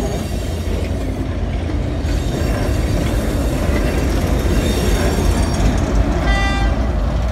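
Train of passenger coaches rolling past close by: a steady rumble and clatter of wheels on rail that swells as a diesel locomotive at the rear goes by near the end. A brief high-pitched wheel squeal comes about six seconds in.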